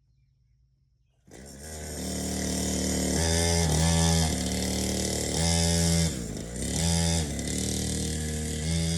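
Small dirt bike engine coming in abruptly about a second in, then running and revved in several blips, the pitch rising and dropping back each time.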